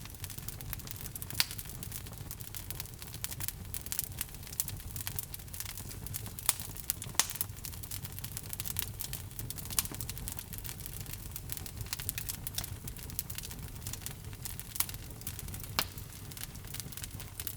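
Wood logs burning in a fireplace, crackling with frequent sharp irregular pops over a low steady rumble of the flames.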